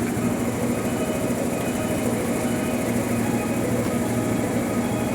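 JR East 211-series electric train at the platform, a steady hum with an even rumble around it, holding the same pitch and level throughout.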